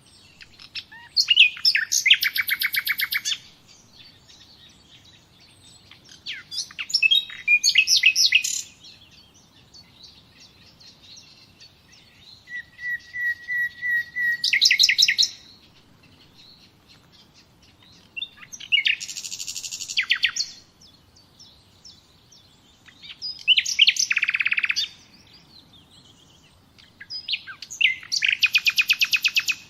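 A songbird singing, giving six phrases a few seconds apart, each a couple of seconds long and made of quick repeated high notes that run into a fast trill.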